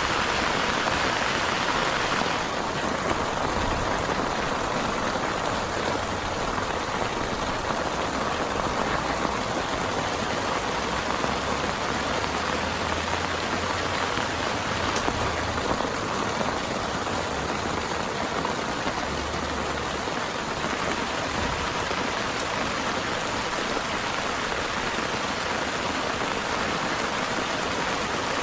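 Heavy rain falling steadily, easing slightly about two seconds in.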